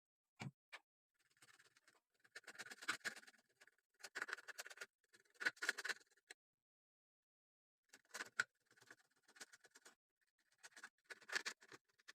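Intermittent scratching and rubbing noises in short bursts, each up to about a second long, with silent gaps between.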